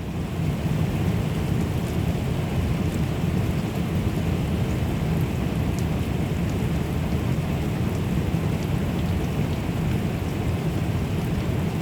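Heavy cloudburst downpour: a steady, dense rush of rain with a deep low rumble underneath.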